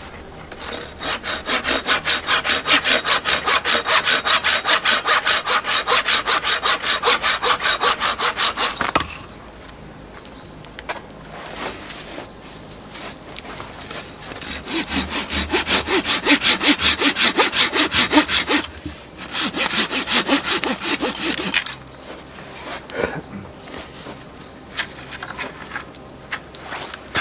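Hand saw cutting through wood in quick back-and-forth strokes, about four a second, in three bouts: a long one of about eight seconds, then two shorter ones after a pause.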